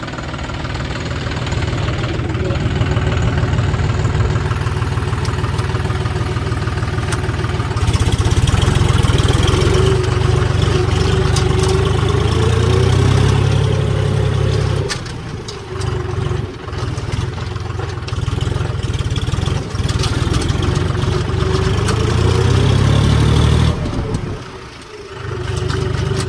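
Tractor diesel engine running under throttle as the tractor is driven forward. It gets louder about a third of the way in, eases off and picks up again in the middle, and drops back briefly near the end.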